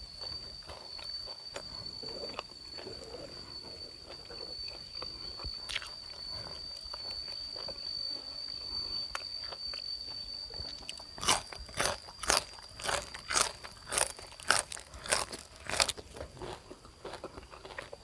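Close-up chewing of raw fresh vegetable stalks: soft chewing at first, then a run of loud, crisp crunching bites, about two or three a second, in the last third. A steady high insect drone runs through the first part and stops about when the loud crunching begins.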